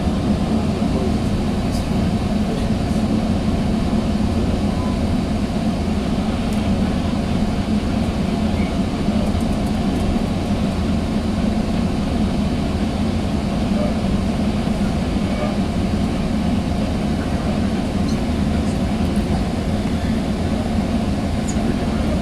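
Steady rumble of a Sounder commuter train in motion, heard from inside a passenger car: wheels running on the rails and the car body rattling, even and unbroken.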